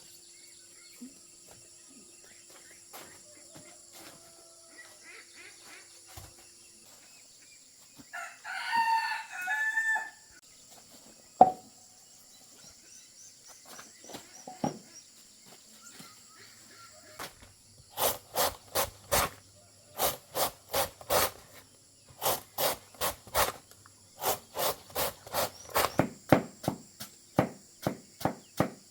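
A rooster crows once, a long call, about a third of the way in. In the second half comes a fast run of sharp knocks in bursts of several strokes a second, over a steady high background whine.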